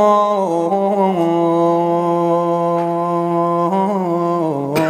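A male munshid chanting a line of Arabic verse, drawing it out into one long held note that steps down in pitch a few times. A brief sharp click near the end.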